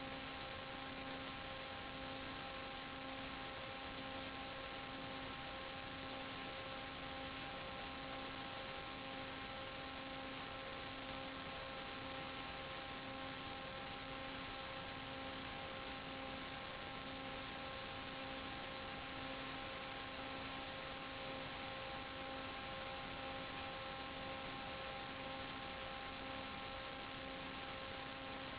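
Steady hiss with a constant electrical hum and whine made of several fixed tones, the lowest one pulsing gently. It is typical of the audio channel of an analog 5.8 GHz FPV video downlink.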